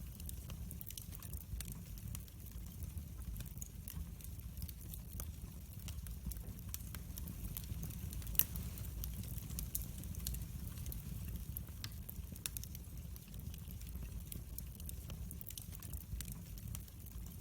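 Wood fire crackling in a fireplace: a steady low rumble of burning logs with scattered small snaps and clicks, and one sharper pop about halfway through.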